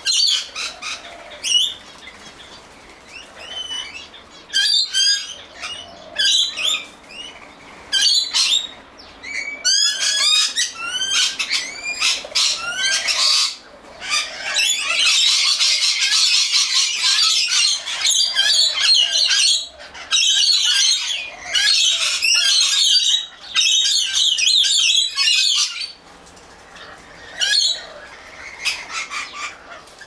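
Birds chirping: quick, high, sliding call notes, scattered at first, then a dense, continuous chatter from about halfway through that breaks off a few seconds before the end, followed by thinner calls.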